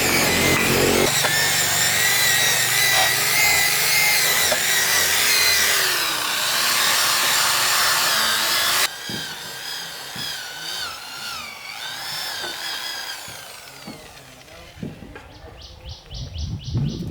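A power tool runs loudly with a wavering whine, then cuts off abruptly about nine seconds in. A quieter whine that dips and fades follows.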